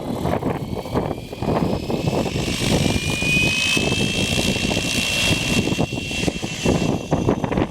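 Electric RC helicopter spooling up: a high motor whine rises over a couple of seconds, then holds steady. Strong wind buffets the microphone throughout.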